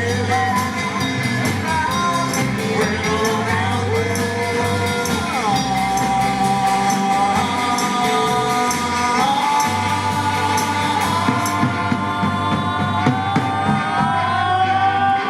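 Live rock-and-roll band playing, with a steady drum beat and long held notes that slide down near the end.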